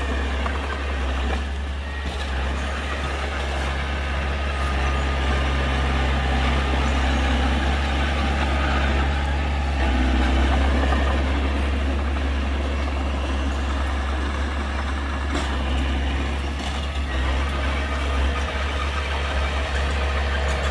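Heavy diesel earthmoving machinery running steadily with a strong low rumble, its engine note shifting slightly about halfway through. A couple of short sharp sounds come near the end.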